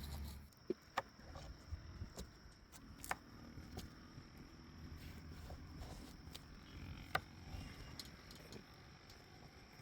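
A few scattered sharp clicks and knocks, the loudest about a second in, about three seconds in and about seven seconds in, over a faint steady high tone.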